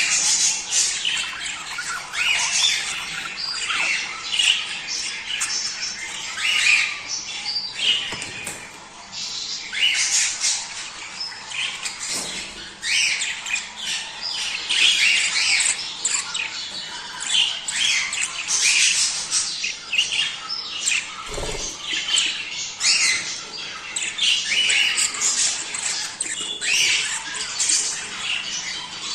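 A flock of budgerigars chattering, with a continuous overlapping jumble of chirps, squawks and warbles.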